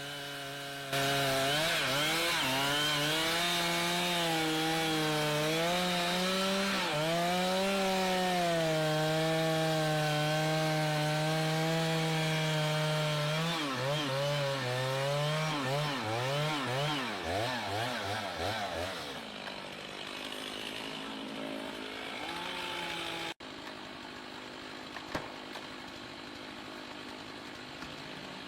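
Chainsaw running at high speed and cutting wood, holding a steady high pitch, then revving up and down in quick blips before easing off. An abrupt cut leaves a quieter background with a couple of faint knocks.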